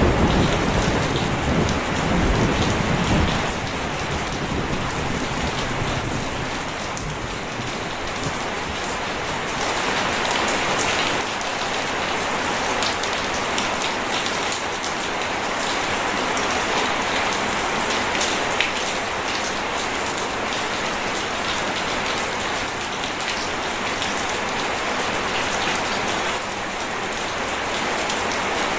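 Steady rain pouring, with a low rumble of thunder dying away in the first few seconds.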